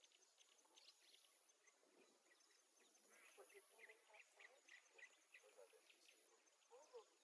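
Near silence with a very faint background of many short, rapid bird-like chirps.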